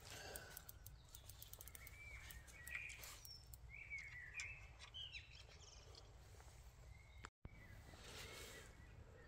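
Faint outdoor ambience with a bird chirping several times in the middle stretch, and a few light clicks.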